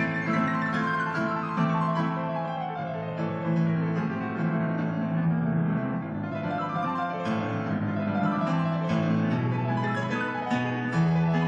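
Piano playing a fast, dense passage of rapid runs over repeated low bass notes, with a long falling run in the first three seconds.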